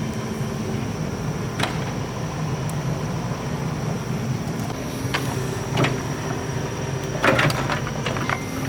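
Excavator engine running steadily, with a few sharp metallic knocks, a cluster of them about seven seconds in.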